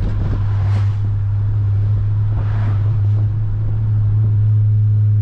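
Honda Civic Si's 2.0-litre four-cylinder engine and exhaust running at a steady cruise, a constant low drone that neither rises nor falls.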